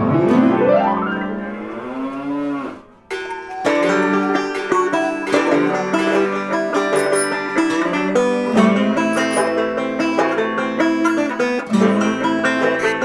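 A cow-like moo with bending pitch lasts about three seconds, then plucked banjo music starts and carries on.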